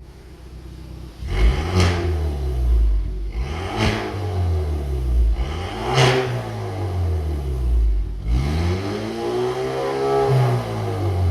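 Genesis G70's 2.0-litre turbocharged four-cylinder blipped through an aftermarket Junbiel electronic variable exhaust: after a second of idle the engine is revved up and lets back down four times, three short blips about two seconds apart and a longer, higher rev near the end.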